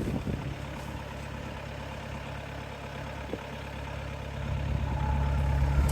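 Car engine idling cold after standing overnight, running evenly with no knock now that the clutch and flywheel have been replaced. It grows louder over the last second or so.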